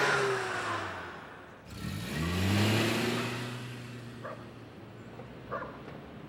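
Taxi engine pulling away: its note falls, then about two seconds in climbs again and holds before fading into the distance.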